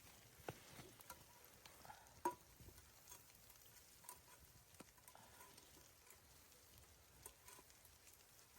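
Near silence with faint, scattered ticks and taps, the loudest a single sharp click a little over two seconds in.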